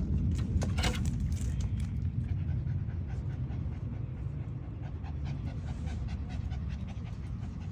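Small dog panting quickly and evenly, several breaths a second, while resting after a walk, over a steady low rumble.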